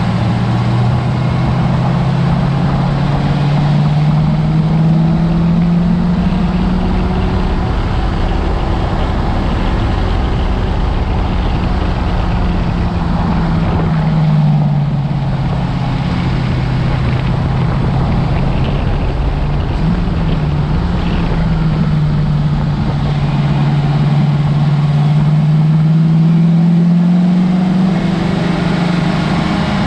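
A Mustang's engine pulling around a race track. Its pitch climbs over the first several seconds, falls away about halfway through, then climbs again and drops near the end, over constant wind and tyre noise.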